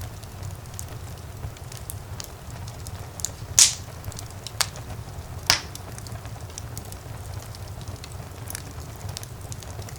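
Wood fire burning in a fireplace: a steady low rumble of flames with scattered small crackles, and two louder sharp pops about three and a half and five and a half seconds in.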